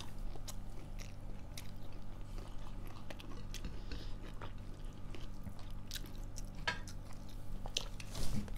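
Close-miked chewing and biting of food, with scattered small crunches and mouth clicks at irregular intervals over a steady low hum.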